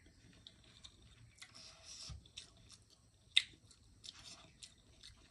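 A person chewing a mouthful of stir-fried noodles, with soft wet mouth sounds and small clicks from a fork, and one sharp click about three and a half seconds in.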